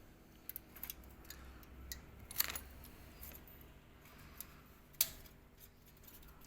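Faint scattered metallic clicks and taps from handling a pipe and hand tools, with two louder clicks about two and a half and five seconds in.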